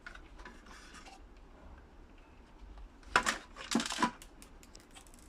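Small hard parts of a steam iron being taken apart clicking and clinking as they are handled, with a cluster of sharp clicks and knocks about three seconds in.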